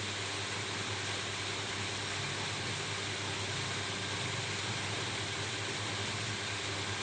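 Steady rain falling on a roof: an even, unbroken hiss with a low steady hum beneath it.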